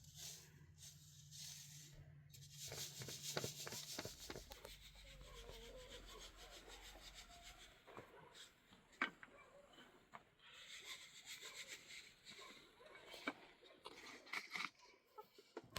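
Faint rubbing and scraping sounds, with a few sharp clicks scattered through.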